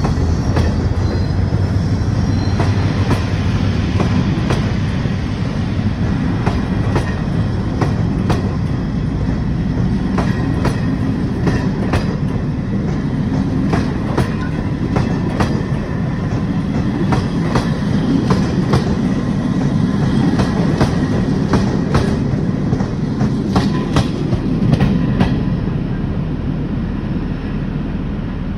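Passenger coaches rolling past close by: a steady rumble with the wheels clicking over rail joints again and again. A faint high wheel squeal is heard in the first couple of seconds.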